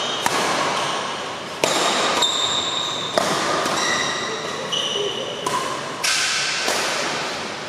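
Badminton rally: rackets hit the shuttlecock sharply every second and a half or so, and shoes squeak briefly on the court floor between the hits, over a steady noise in a large hall.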